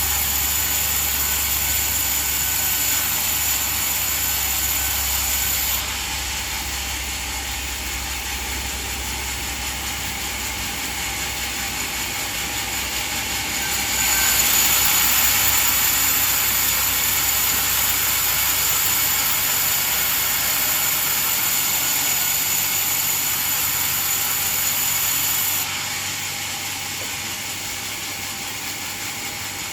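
Sawmill band saw running steadily, with a steady high-pitched hiss. It gets louder and brighter from about fourteen seconds in until it drops back about twenty-six seconds in.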